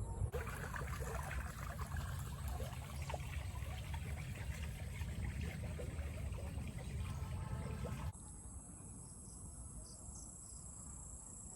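Insects, crickets among them, calling steadily in a high, even drone over a low rumble; the sound changes abruptly about eight seconds in, as between two recordings.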